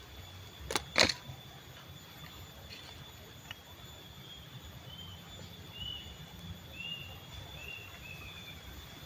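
Two sharp clicks about a second in, then a bird calling in a run of about six short chirps, each a quick up-and-down note. Under it all is a steady low rumble of outdoor background noise.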